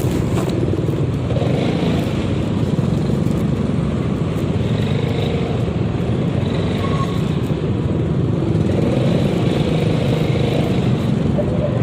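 Steady riding noise from a Yamaha XMAX 300 scooter moving through traffic: wind and road rush with the engine running underneath.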